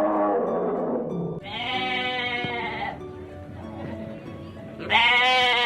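Two long, wavering bleats from a sheep or goat–type animal, one about a second and a half in and a shorter one near the end, over background music. A lower, rough animal growl fades out in the first second or so.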